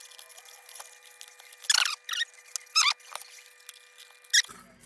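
A papery insect nest being broken up and scraped out of a heater's air passage: a series of sharp, dry, scratchy crackles, the strongest about two, three and four and a half seconds in.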